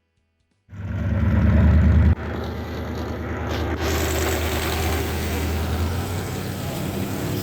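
A car engine running with a strong low exhaust note. It starts abruptly just under a second in, is loudest for about the first second and a half, then drops back to a steady idle.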